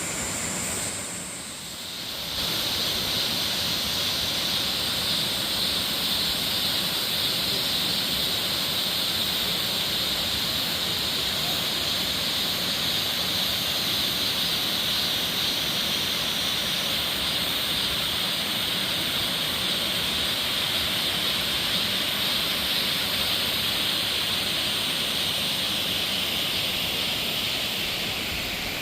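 Waterfall rushing steadily, a constant even roar of falling water that dips briefly about two seconds in.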